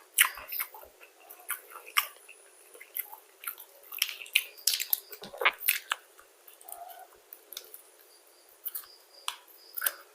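Close-up chewing and crunching of crispy fried chicken: irregular sharp crunches and mouth clicks, several times a second at their busiest.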